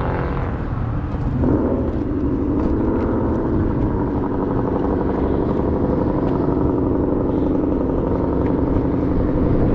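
A vehicle engine running close by, with low rumble throughout; about a second and a half in its pitch rises briefly and then holds steady.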